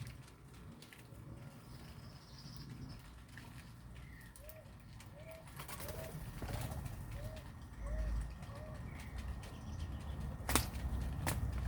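A bird calling a run of about seven short, arched notes, evenly spaced at roughly three every two seconds, with a few fainter higher chirps around it. Two sharp clicks come near the end.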